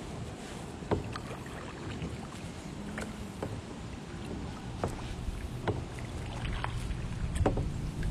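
Water and wind noise around a small fishing boat, likely a kayak, with a steady low rumble and scattered light knocks, about one every half second to second.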